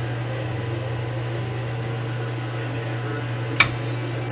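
A steady low hum, like a fan or appliance running in a small room, with one sharp knock about three and a half seconds in, a hard tap on the work surface while soap is being cut.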